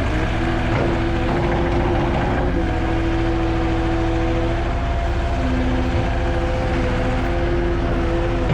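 Engine of a heavy snow-removal work vehicle running steadily, with a few held whining tones over the engine note.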